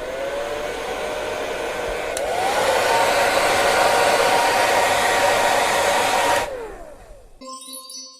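Hair dryer blowing: its motor whine rises as it starts, steps up to a higher, louder setting about two seconds in, then winds down as it is switched off after about six and a half seconds. A faint steady pitched tone follows near the end.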